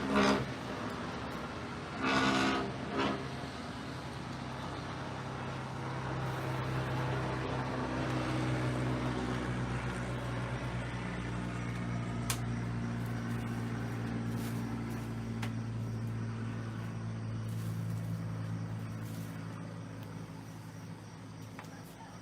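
A short horn blast with a brief second toot about two seconds in, then a motor engine's steady hum that swells and fades away near the end as it passes.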